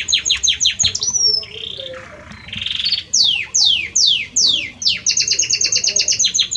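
Male Belgian canary singing: a fast trill of repeated high notes, a short rolling passage, five slower falling whistles, then another fast trill.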